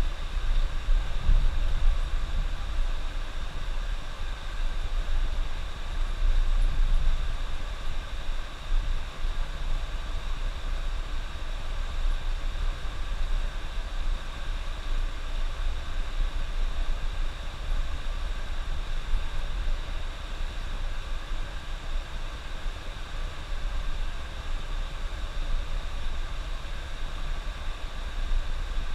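Bus driving at road speed: a steady low rumble of engine and drivetrain with an even hiss of road noise above it.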